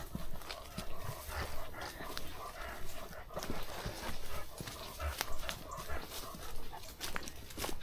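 Footsteps walking at a steady pace on a woodland path, about one and a half steps a second.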